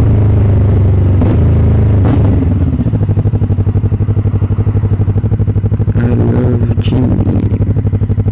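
Motorcycle engine running steadily. About three seconds in the revs drop and it settles into a lower, fast, even pulsing beat, like off-throttle running or idle.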